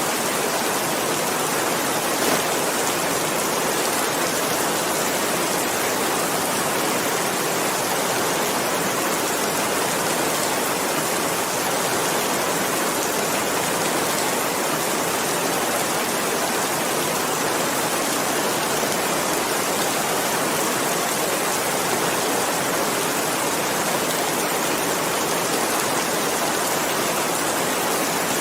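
Steady rain falling, an even hiss of many drops with no change in intensity and one slightly louder drop-tick about two seconds in.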